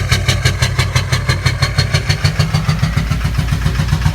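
2006 GMC Duramax 6.6 L V8 turbo-diesel idling with a hard, even knock, about seven or eight beats a second, that sounds like a helicopter. The knock comes from a failing fuel injector after a tank of bad fuel.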